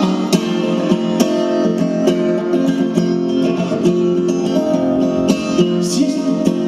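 Instrumental music: acoustic guitar strumming chords as song accompaniment, with no singing.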